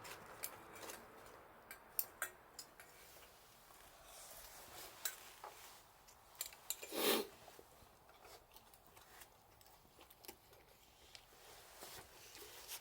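Scattered light clicks and taps, with one louder brief rush of noise about seven seconds in.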